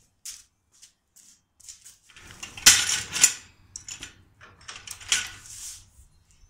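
Irregular clicking, rattling and clanking of metal parts being handled, with two louder clanks about three seconds in.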